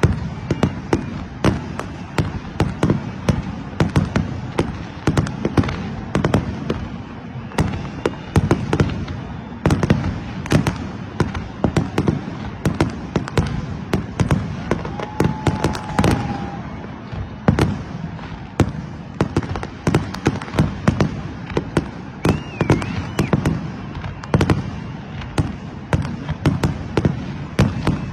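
Fireworks going off in a dense, continuous barrage: sharp cracks and bangs several a second, overlapping, with no let-up. Just past halfway a brief steady whistle sounds over them.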